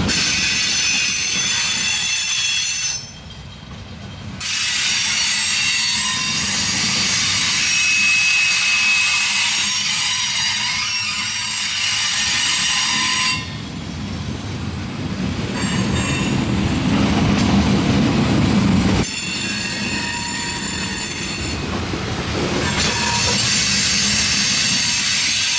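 Loaded steel coal hopper cars of a freight train rolling past with a continuous rumble and a high-pitched metallic squeal of several shifting tones. The squeal fades out briefly about three seconds in and again around the middle, then returns.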